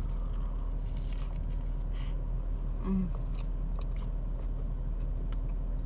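A person biting and chewing food close to the microphone, with a few short crisp crunches over a steady low hum.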